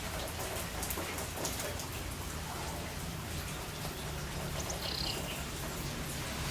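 Rain falling steadily, with drops pattering. A short high bird chirp comes about five seconds in.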